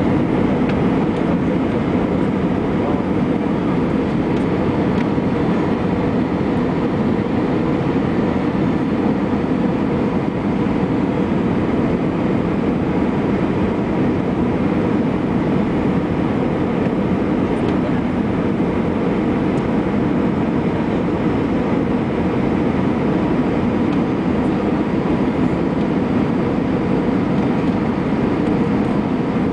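Steady cabin noise inside an Airbus A321 in flight: an even rush of airflow and engines, with no change in pitch or level.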